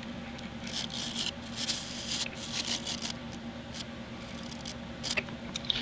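Light scratchy rustling and clicks from the Royal 608 vacuum's very soft brush-roll bristles being handled, over a faint steady hum.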